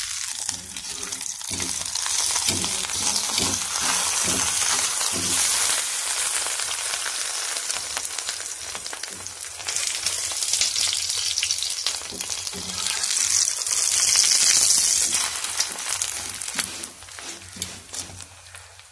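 Masala paratha frying in ghee on a hot tawa: a steady sizzle that swells to its loudest about three-quarters of the way through, then dies down near the end.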